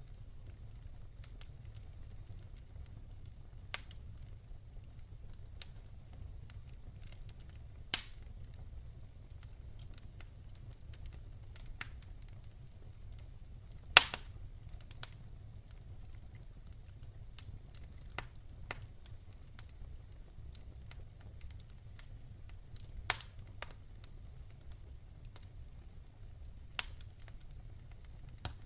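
Campfire burning with a steady low rumble and irregular crackles and pops, a few of them sharp and loud, about 8 and 14 seconds in.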